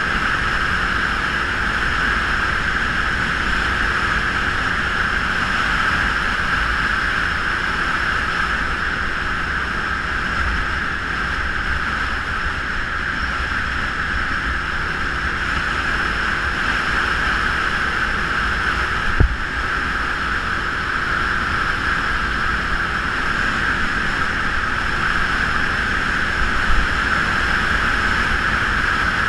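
Steady engine and wind rush of a Geon Scrambler 250 motorcycle on the move, with one sharp knock about two-thirds of the way through.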